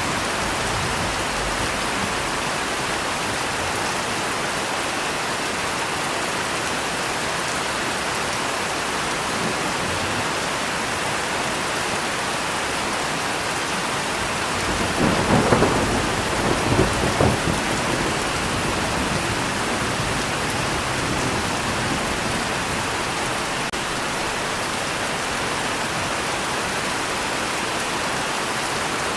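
Steady rain falling, with a short rumble of thunder in several swells about halfway through.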